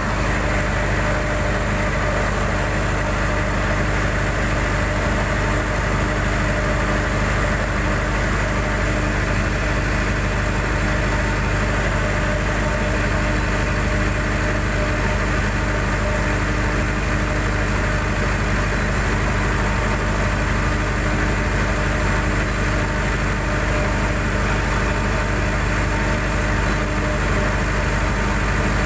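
Cummins QSB-5 diesel engine running steadily on a test run, its speed unchanging.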